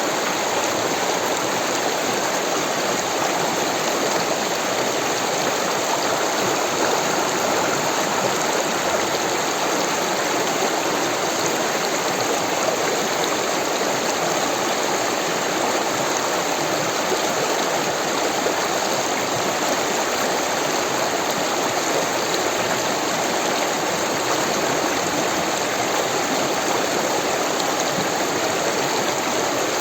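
Rushing water of a stream, a steady, unbroken flow.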